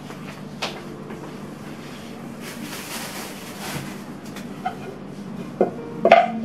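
Household items being handled: scattered light clicks and knocks, a brief rustle in the middle, and two louder knocks near the end, like things being set down or a cupboard or fridge door closing.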